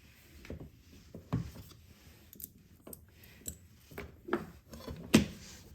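Irregular clicks and knocks of an electric chainsaw's plastic and metal parts being handled and fitted together during reassembly, the loudest knock a little past five seconds in.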